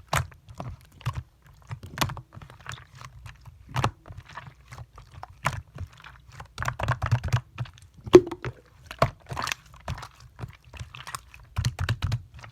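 Clear slime being squeezed and kneaded by hand, giving irregular sticky clicks, pops and crackles, with clusters of quick pops about 7 and 12 seconds in.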